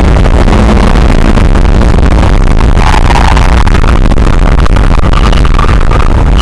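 Loud, overloaded onboard sound from an open-top Lotus sports car at speed: engine noise and wind buffeting the microphone blend into a dense distorted roar. The engine pitch climbs a little in the second half.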